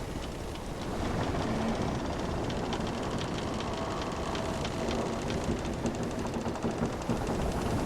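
Wooden sailing ship creaking, with many small ticks and a few short drawn-out creaks from the timbers, over a steady rush of ocean waves.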